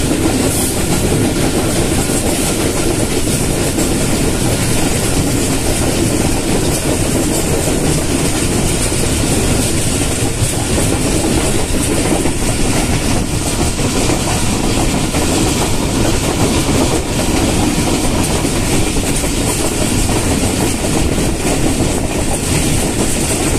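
Train running steadily along the track, heard from inside a carriage: a continuous, even rumble and rush of wheels on rails.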